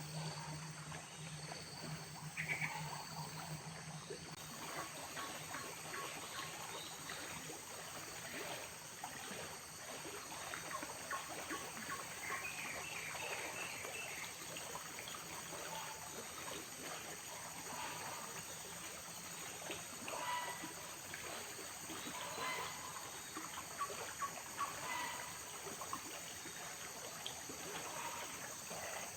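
Forest ambience: frogs calling in short, scattered chirps over a steady high insect drone and trickling water.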